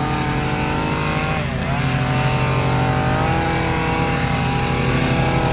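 Small petrol engines of outdoor power equipment running together, with one engine briefly dropping in speed and picking back up about a second and a half in.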